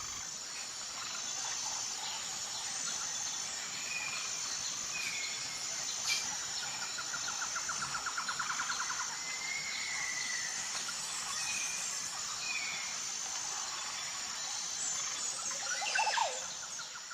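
Rainforest ambience: a steady high, pulsing insect chirring, with scattered short bird whistles and a rapid trill from a bird or insect about eight seconds in.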